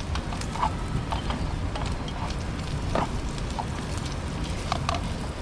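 Bacon lardons sizzling in hot oil in a pan over low heat, with scattered pops and crackles.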